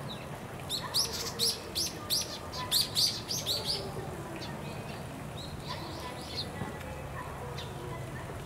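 A bird chirping: a quick run of about a dozen short, high notes starting about a second in and lasting about three seconds, then a few fainter chirps a little later.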